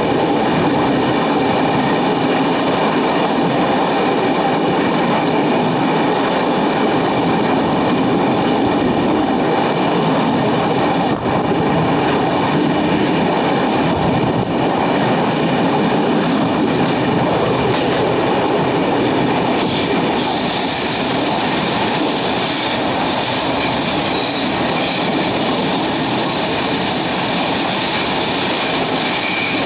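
Indian Railways passenger train running, heard from on board: a loud, steady rush of wheels on the rails and coach noise, turning brighter and hissier about two-thirds of the way through.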